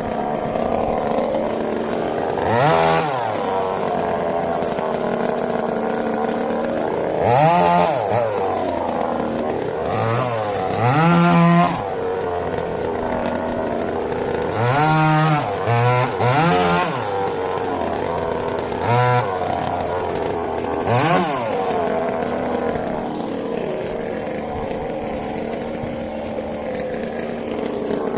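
Two-stroke chainsaw engine running at a steady low speed, revved up and back down in short bursts about nine times, several of them close together between about ten and seventeen seconds in.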